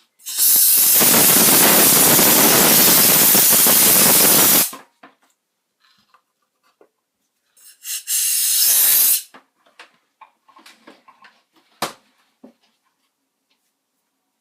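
A loud pressurised spray hissing for about four seconds, then a second, shorter spray about three seconds later, followed by a few small clicks and taps.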